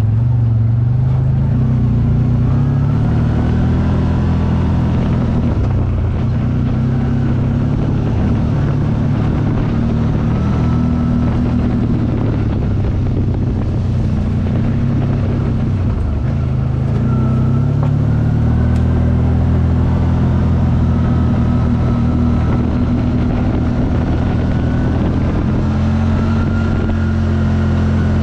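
A CFMoto engine running continuously while under way, its note dropping and rising again a few times.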